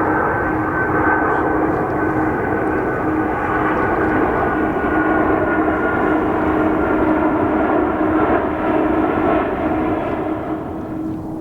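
Jet airliner passing close on its landing approach: a steady engine rush with a whine slowly falling in pitch, easing off near the end.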